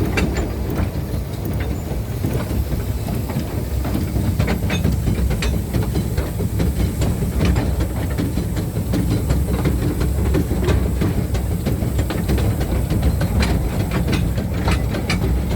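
Miniature steam train rolling down the track with its brakes off: a steady rumble of wheels on rail with many irregular clicks and clacks over the rail joints, and a faint steady hiss above it.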